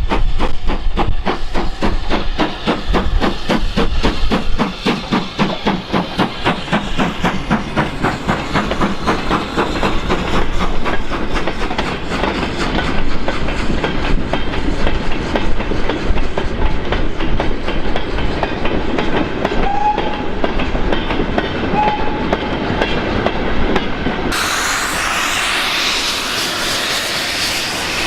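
Steam-hauled train passing on the line, a rapid even beat of exhaust and wheels on the rails. About 24 seconds in it cuts abruptly to a steady rushing noise.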